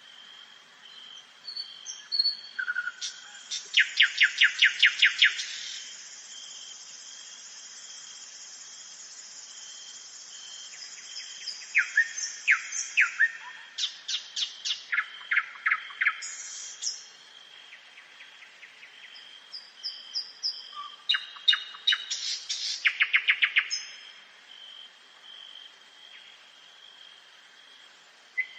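Nightingale singing: three song phrases of loud, fast repeated notes and trills, separated by pauses, over a faint steady high tone.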